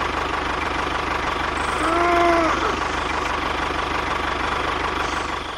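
Tractor engine idling steadily with a fast, even knock. About two seconds in, a short pitched call rises and falls over it.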